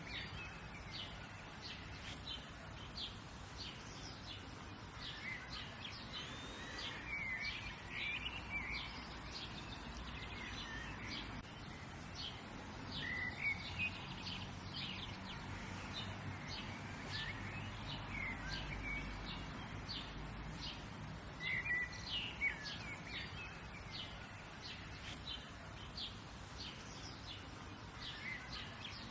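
Several small songbirds chirping and calling, many short chirps overlapping, over a steady low outdoor rumble.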